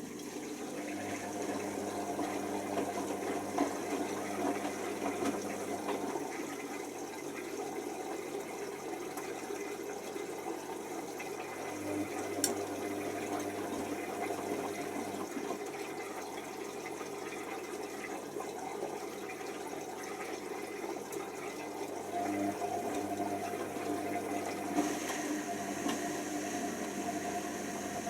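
Hoover Nextra HNWL7146 washer dryer running a cycle, with water running into the machine. A low hum comes and goes in stretches, and there is a single click about twelve seconds in.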